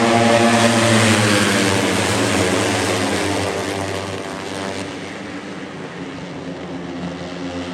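A pack of Moto4 race motorcycles passing at speed. Several engine notes overlap, loudest as they go by and then fading away over the next few seconds.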